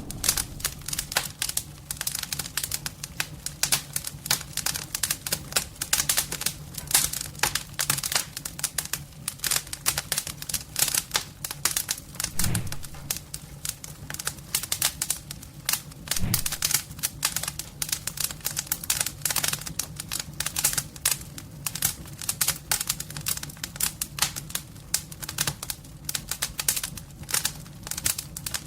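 Wood fire crackling in a home-made fireplace: dense, irregular snaps and pops, with a steady low hum underneath.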